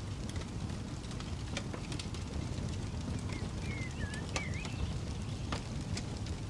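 Campfire crackling, with frequent sharp pops and snaps over a steady low rumble. A bird gives a few short chirps around the middle.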